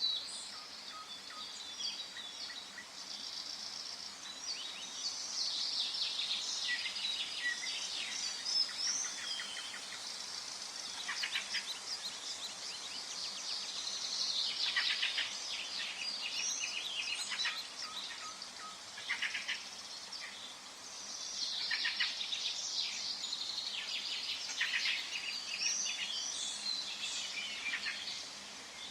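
Several songbirds singing at once, overlapping chirps and rapid trills, over a faint steady background hiss.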